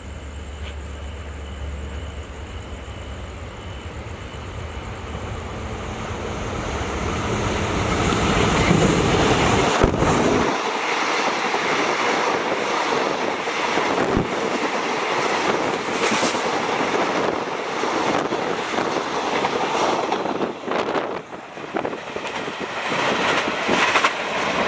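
Passenger train passing through a station: a diesel locomotive's engine rumble grows louder as it approaches and goes by about ten seconds in. Then the carriages rush past, their wheels clacking over the rail joints.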